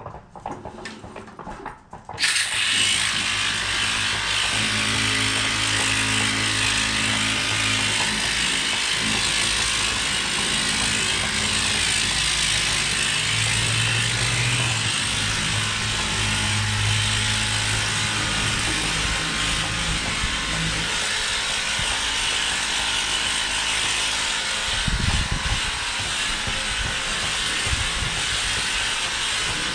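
Kobalt 600 psi cordless electric pressure washer switched on about two seconds in, its pump motor running and the water spray hissing steadily.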